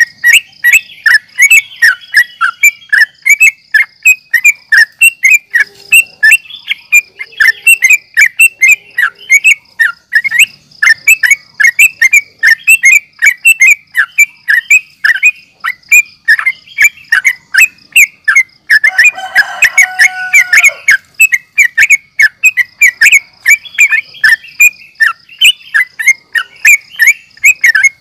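Yellow-vented bulbul (trucukan) calling in a rapid run of short, sharp chirps, about three a second, over a faint steady high whine. About two-thirds of the way in comes a brief, denser, lower burst of tangled calls.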